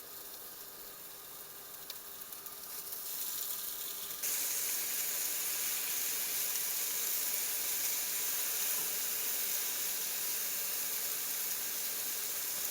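Food frying on a hot camp grill, a steady sizzle that gets suddenly louder about four seconds in and then holds steady.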